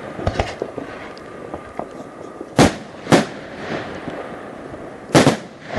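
New Year's fireworks: loud sharp bangs of exploding rockets, two about half a second apart near the middle and another near the end, over a steady background of distant bangs and crackling.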